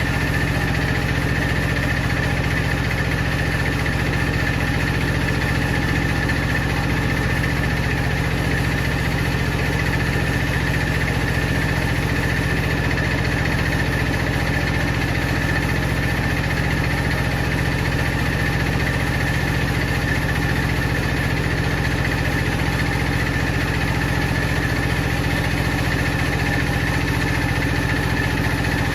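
Woodcutting saw machinery running steadily, a constant machine hum that holds the same pitch and level throughout.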